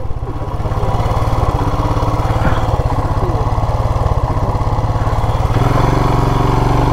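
Royal Enfield Classic 350's single-cylinder engine running steadily, growing louder about five and a half seconds in.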